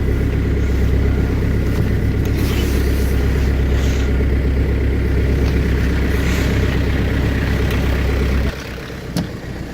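Audi A4 B6 1.9 TDI diesel engine idling steadily just after a cold start in sub-zero weather. About 8.5 s in the engine sound drops away sharply, and a short click follows.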